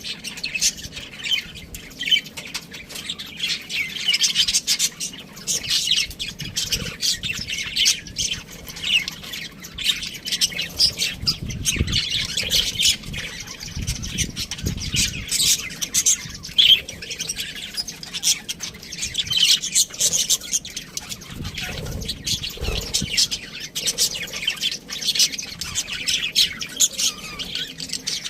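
Budgerigars chattering with a steady stream of rapid, high chirps and squawks.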